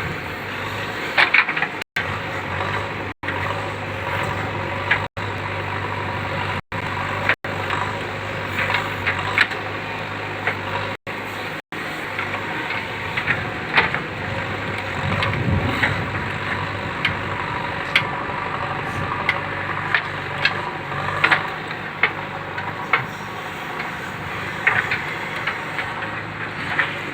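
JCB 3DX backhoe loader's diesel engine running steadily, with frequent short clanks and crunches from the bucket working soil. The sound cuts out for an instant several times in the first twelve seconds.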